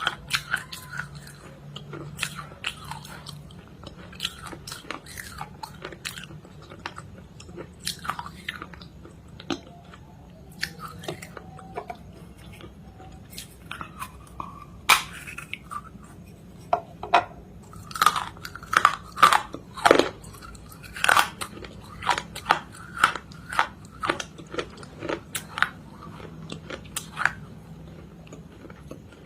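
A person biting and chewing something crunchy close to the microphone, a rapid run of sharp crackling crunches. The crunches are sparser at first and come thickest and loudest past the middle, over a low steady hum.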